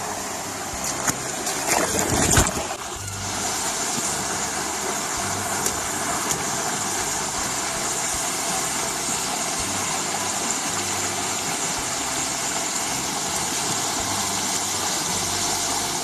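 Steady rush of a waterfall and its stream, with a few knocks in the first couple of seconds.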